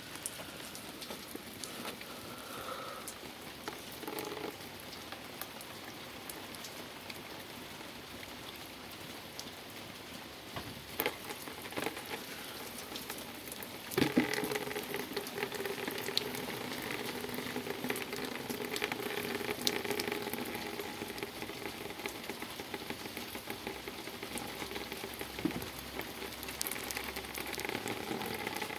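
Wet snow and ice pellets falling: a steady hiss with many small ticks of pellets striking surfaces. About 14 seconds in there is a sharp knock, and after it a steady hum runs under the precipitation.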